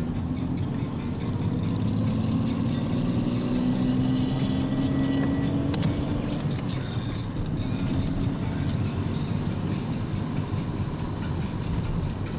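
A car being driven, heard from inside: steady engine and road noise, with the engine note rising gradually over the first several seconds as the car speeds up.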